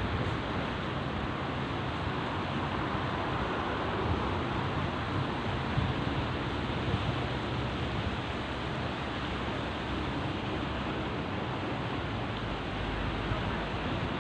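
Steady rushing noise of wind on the microphone over sea surf, with low uneven buffeting.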